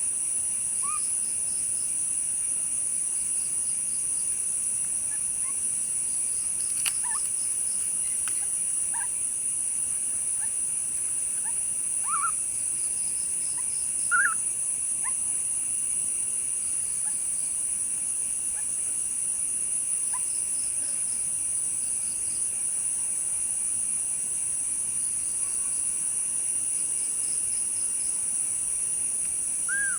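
A steady high-pitched insect chorus with a repeating pulsed chirping, and short high calls scattered over it every few seconds. The loudest calls come about twelve and fourteen seconds in and right at the end.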